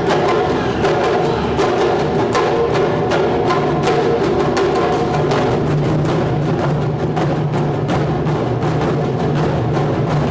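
Ensemble of Japanese taiko drums playing in dense, rapid strikes, with a sustained ringing tone underneath.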